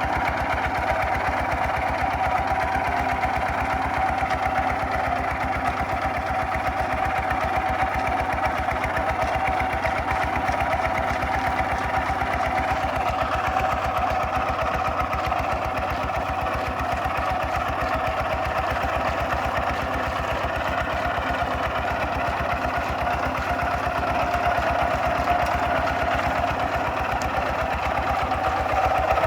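Kubota RT 140 DI single-cylinder diesel engine of a two-wheel walking tractor, running steadily while plowing, with a fast, even beat; it gets a little louder near the end.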